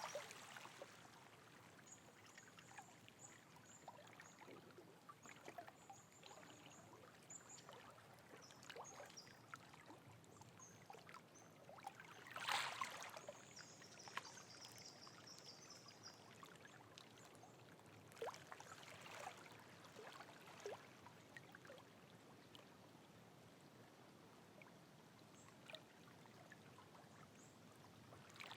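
Faint rainforest water ambience: water trickling and dripping, with a louder splash about halfway through and another a few seconds later. Short high chirps come and go above it.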